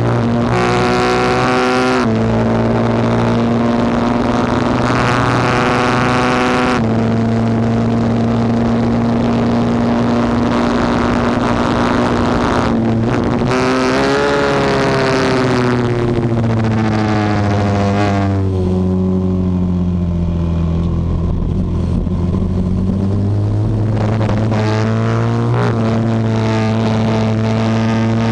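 Norton Manx single-cylinder racing motorcycle engine running hard, with sharp breaks in the note at gear changes. About two-thirds of the way through, the pitch falls and the note turns duller as the throttle is shut for a corner; it picks up and rises again near the end.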